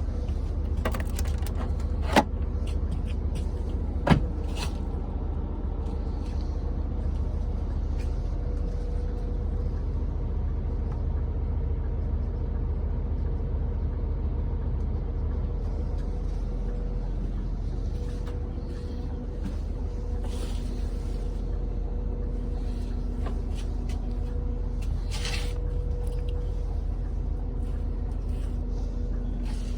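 Scania vehicle's diesel engine running with a steady low drone, with two sharp clicks about two and four seconds in.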